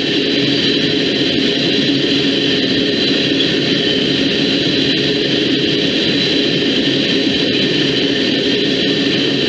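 Train passing close by: the steady, loud rolling noise of its wheels on the rails, unchanging throughout.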